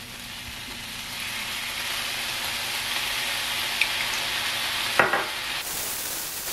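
Tofu cubes sizzling in a hot frying pan as hoisin sauce is squeezed in, the sizzle growing louder over the first couple of seconds. A sharp tick about four seconds in and a knock about five seconds in.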